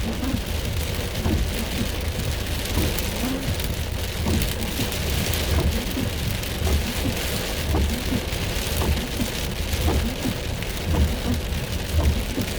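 Heavy rain pelting the roof and windshield of a Toyota Corolla, heard from inside the closed car: a dense, steady patter of drops with a low rumble underneath.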